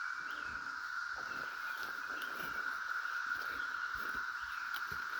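A chorus of cicadas droning steadily, one even high buzz without a break.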